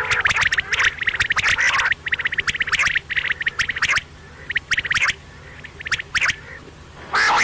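Quail calling in rapid trains of clicky, trilling notes: a dense run through the first two seconds, then shorter bursts with pauses, and a loud burst near the end.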